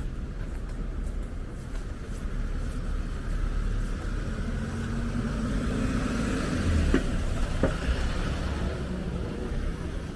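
Street traffic rumble as a motor vehicle drives past close by. It grows louder toward the middle and peaks about two-thirds of the way through, then fades.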